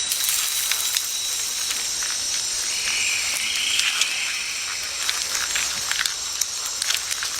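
A steady high-pitched hiss with a few thin, steady high tones in it and scattered faint clicks.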